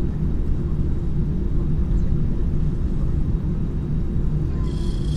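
Airliner's jet engines running, a steady low rumble and hum heard from inside the cabin before takeoff. Near the end, a brief high tone sounds for about half a second.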